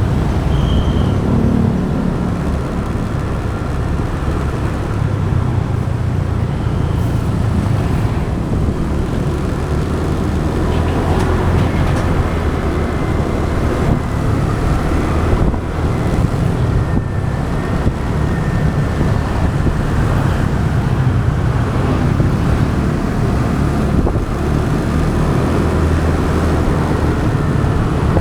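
Motorbike riding in traffic, heard through an action camera's microphone: a steady, loud mix of the bike's engine, road noise and passing vehicles, with wind rumbling on the microphone.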